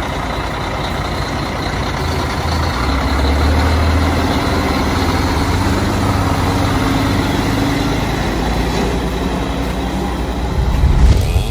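Heavy machinery engine running steadily, with a deep low hum. It swells loudest just before it cuts off abruptly near the end.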